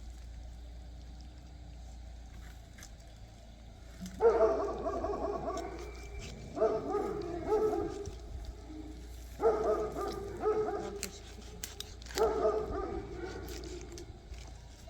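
A dog barking in four bouts, each about a second and a half long, starting about four seconds in.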